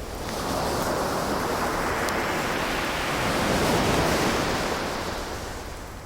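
Ocean wave washing ashore: a surge of surf noise that swells in over the first second, peaks about four seconds in, then fades away.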